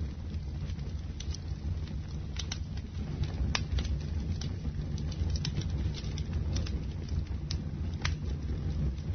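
Bonfire burning: irregular sharp crackles and pops of the wood over a steady low rumble of the flames.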